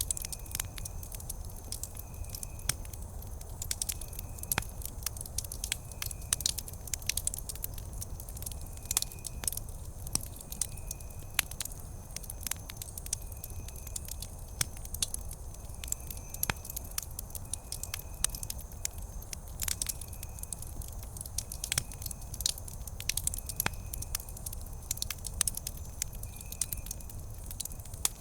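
Campfire wood crackling with frequent sharp pops over a low steady rumble. A short high chirp repeats every second or two throughout.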